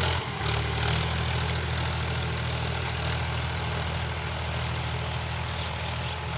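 Powertrac Euro 50 tractor's diesel engine running at a steady speed.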